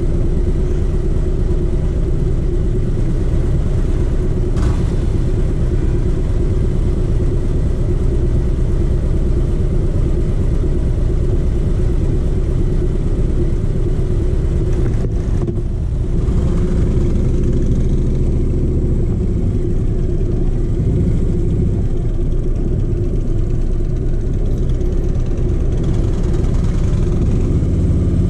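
Harley-Davidson V-twin motorcycle engine idling with a steady low rumble, then revving as the bike pulls away near the end.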